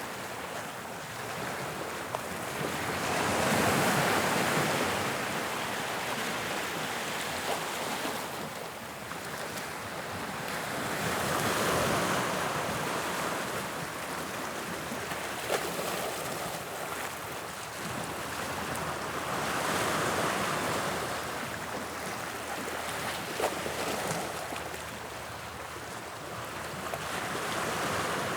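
Sea waves breaking and washing on the shore, swelling and easing back about every eight seconds, four times over. Two short clicks stand out briefly in the wash.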